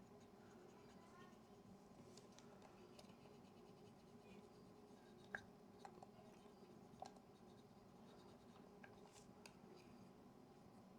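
Near silence: quiet room tone with a few faint small clicks and light scratching, the clearest a little past the middle.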